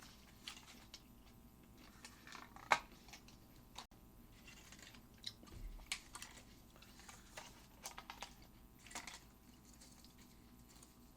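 Eating sounds: scattered small clicks and taps of chopsticks and tableware, with soft chewing of mackerel sashimi. One sharper click comes about a quarter of the way in.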